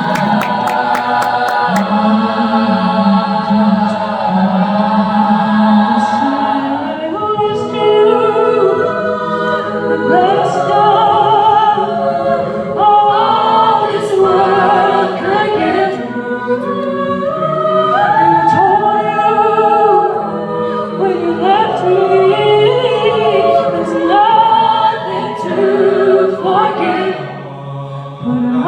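A cappella vocal group singing in close harmony without instruments. Long held chords at first, then a more rhythmic passage of shorter chord changes from about seven seconds in.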